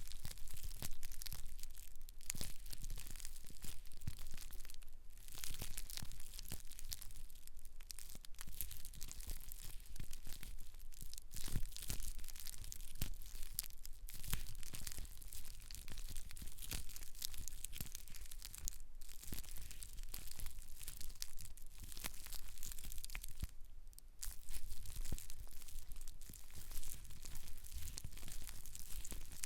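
Close-miked crackling rustle of hair and scalp being rubbed and massaged, a dense run of fine crackles with a few brief pauses.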